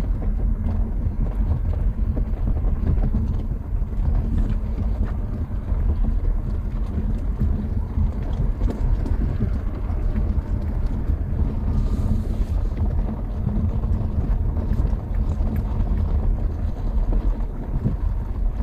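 Car driving slowly over a rough unsealed track, a steady low rumble of tyres and suspension with small ticks and rattles.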